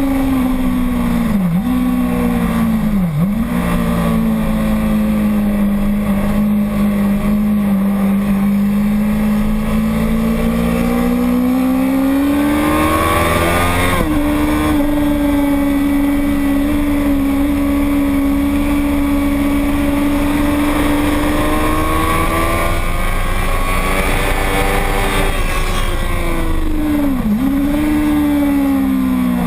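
A racing motorcycle's engine running hard on a circuit. Its pitch climbs as it accelerates and drops sharply at a gear change about halfway through, with quick dips at shifts near the start and end. Wind rush runs underneath.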